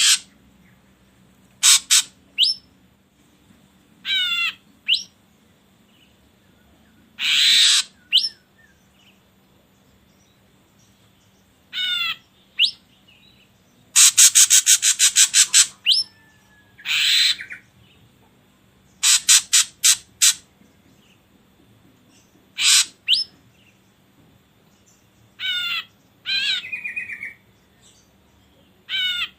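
Ashy drongo calling: a varied string of short calls with pauses between them, including rippling notes that sweep downward and sharp single whistles. About halfway through comes a fast rattle of a dozen or so notes.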